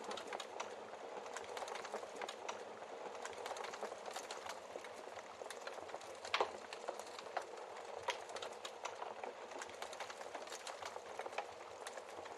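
Log fire crackling steadily in a fireplace, with many small snaps and one louder pop about six seconds in.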